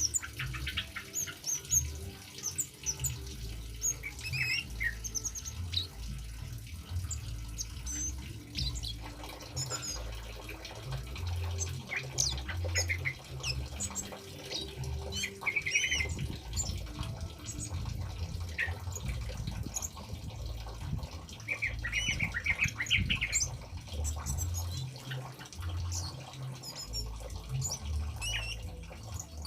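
Wild bird calls: many short chirps and warbling phrases, among them the kemade's, repeating throughout over a background of trickling water and a low rumble.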